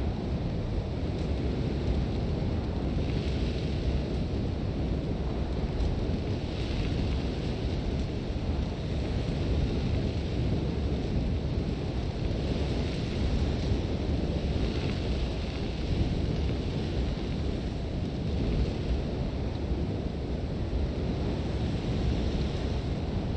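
Sandstorm wind blowing hard and steadily with a deep rumble, while blown sand hisses in soft swells every few seconds.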